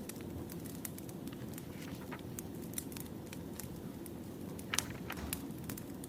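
Wood fire burning: a steady low flame noise with scattered crackles and pops of the logs, the loudest pop a little before five seconds in.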